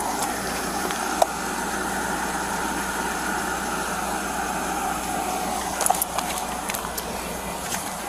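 Steady hum of a running car engine, with a couple of faint clicks about a second in and near six seconds.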